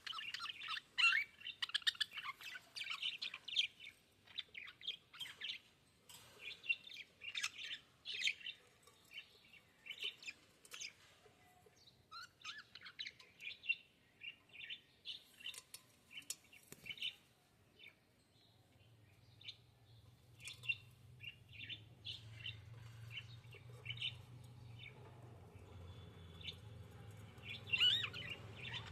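Budgerigars chirping: many short, quick chirps in runs, with a brief lull about two-thirds of the way through. A faint low steady hum sits under the later chirps.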